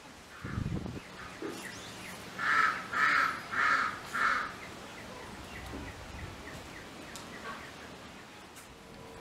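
A bird calling four times in quick succession, each call short and about two-thirds of a second apart.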